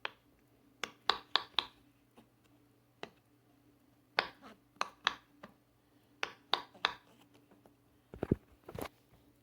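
Bubbles of a silicone pop-it fidget toy being pressed, popping in quick runs of two to five sharp pops with short pauses between the runs.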